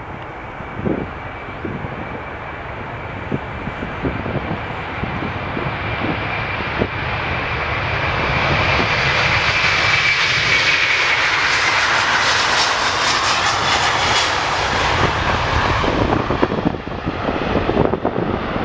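Jet airliner's engines passing by: a high whine that dips in pitch around ten seconds in, over a rush that builds to its loudest in the middle and then fades. Wind buffets the microphone throughout.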